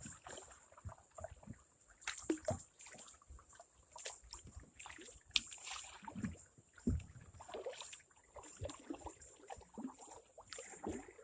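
Water sloshing and dripping around a kayak, with scattered sharp knocks and clicks from the paddle and gear against the boat.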